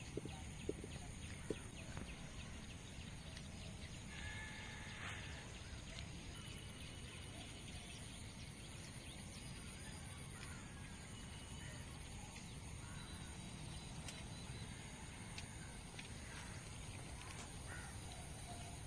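Rural outdoor ambience: birds calling now and then over a steady high-pitched drone and a low rumble, with a few small clicks near the start.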